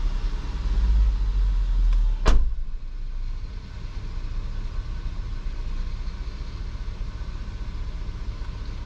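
A car engine idling with a steady low hum. A single sharp knock comes a little over two seconds in, after which the engine hum drops away to a quieter low rumble.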